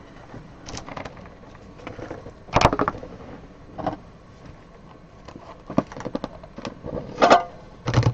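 Trading cards and hard plastic card cases being handled: several short clicks and knocks, the loudest about two and a half seconds in.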